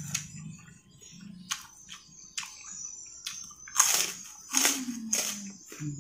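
Close-up eating sounds: a man chewing and biting food eaten by hand. Quiet clicks and smacks come first, then several loud crunchy bites in the second half.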